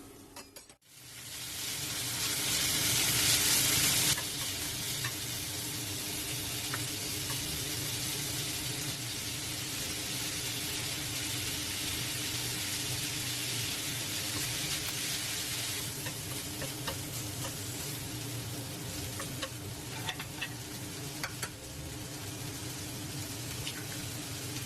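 Pad thai stir-frying in a hot pan. It sizzles loudly for the first few seconds, then settles into a steady sizzle. Light clicks of a utensil stirring come through in the later part.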